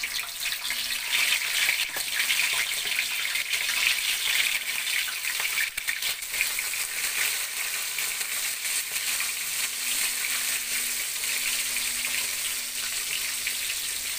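Breadcrumb-coated fish fillets frying in hot oil in a stainless steel pan: a steady sizzle with scattered crackles.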